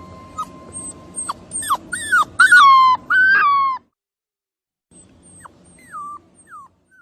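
Puppy whimpering: a run of short, high yelps, each falling in pitch, loudest about two to four seconds in. After a sudden break, a few fainter falling whimpers follow.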